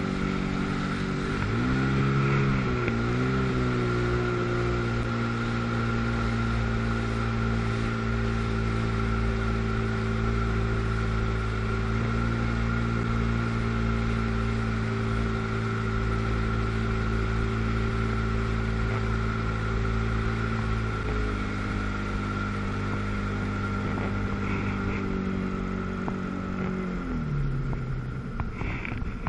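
1997 Sea-Doo GTS personal watercraft's 720 two-stroke twin running under way: it revs up about two seconds in, holds steady at high revs, eases off about two-thirds of the way through and drops back near the end, with a steady high whine alongside.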